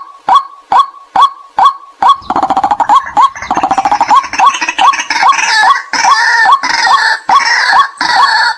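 White-breasted waterhens calling: a loud, regular train of short 'kwak' notes about two and a half a second, joined about two seconds in by a denser, faster chattering of overlapping calls, the kind of recording played to lure waterhens.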